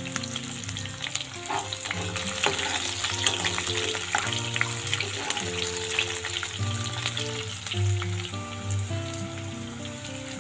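Sliced onions frying in hot mustard oil in a wok, a steady sizzle with crackles, stirred now and then with a spatula. Background music plays underneath.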